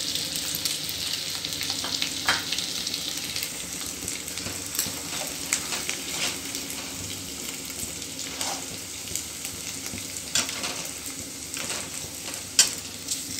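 Onion and spice masala sizzling in hot oil in a steel kadhai while a steel ladle stirs it, knocking and scraping against the pan every second or two.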